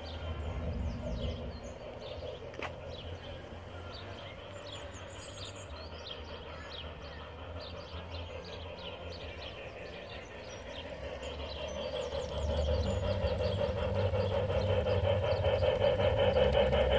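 Model train running on an outdoor garden railway, its motor hum and rapid rail clicking growing louder in the second half as it approaches.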